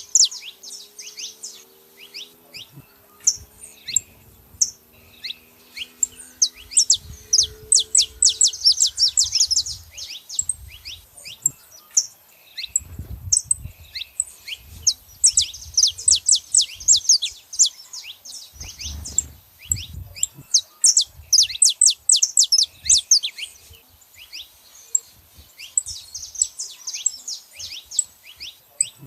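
Saffron finches, male and female, chirping in fast runs of short, sharp, high notes, with brief pauses between the runs.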